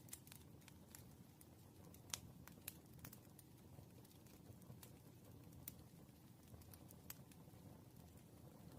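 Faint low room hum with scattered, irregular light clicks and taps of a pen and paper at a desk during problem solving, one sharper click about two seconds in.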